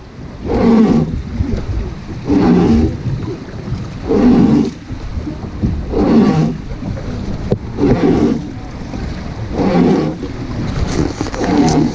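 Rhythmic groaning about every two seconds, in time with the rowing strokes of a wooden river boat, over a steady rush of water and wind.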